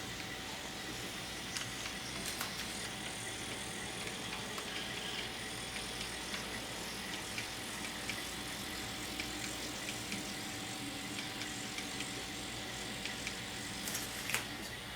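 N scale model train running along the track: a faint steady whir with a thin tone from the small locomotive motor, and a few light clicks, the sharpest near the end.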